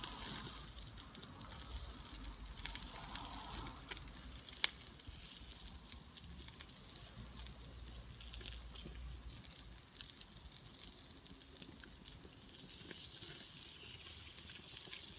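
Wood campfire crackling with small scattered pops and one sharp crack about four and a half seconds in, over a steady high-pitched insect trill.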